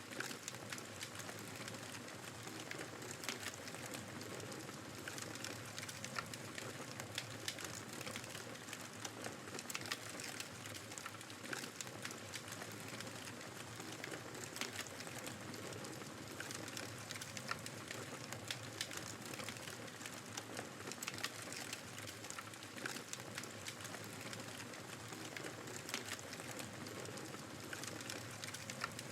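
Fireplace crackling: irregular small pops and snaps of a burning wood fire over a steady rushing hiss of blizzard wind.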